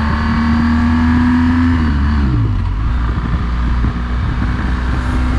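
Motorcycle engine running under way, its note dropping about two seconds in as the revs fall, then holding steady.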